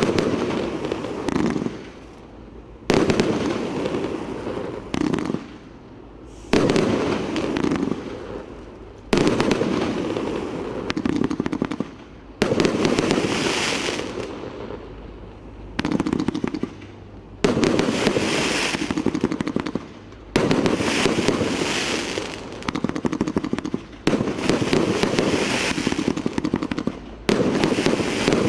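Firework barrage cake firing, about ten shots in all. Each shot goes off with a sudden bang followed by dense crackling that fades before the next one, some three seconds later.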